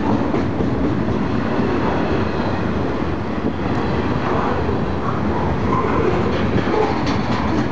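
Freight cars of a CSX trash-container train rolling past: a steady rumble of steel wheels on rail, with faint clicks toward the end.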